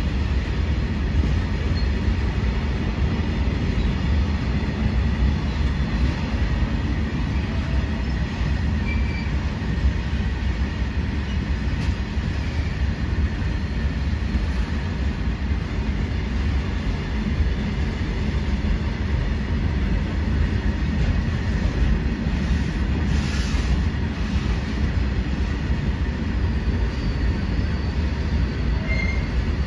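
A long freight train of open wagons rolling steadily past close by: a continuous rumble and clatter of steel wheels on the rails, with a faint, thin, steady wheel squeal above it.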